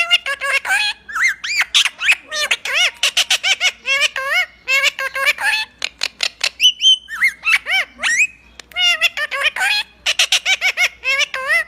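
Pet parrot calling: a rapid run of short squawks and chirps that bend up and down in pitch, broken a little after six seconds by a short steady whistle, then more calls.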